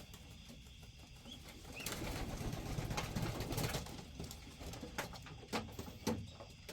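Homing pigeons cooing in a loft, with a louder stretch in the middle and scattered sharp knocks and scuffles.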